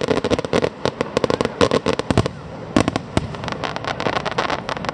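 Fireworks going off: a dense run of rapid crackling bangs for about the first two seconds, then a few louder single bangs and scattered smaller cracks.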